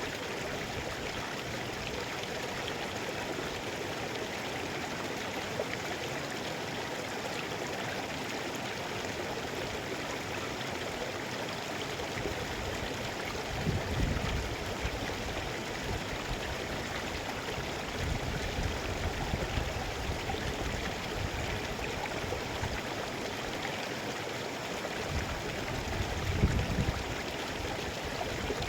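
Mountain river water rushing steadily, with brief low rumbles about halfway through and again near the end.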